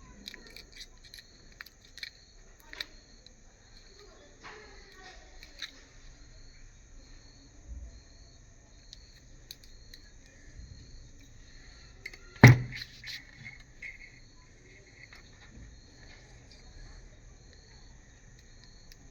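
Small scattered clicks and handling noises from hand work, with one sharp knock about twelve seconds in, over a faint, steady, evenly pulsing high chirping.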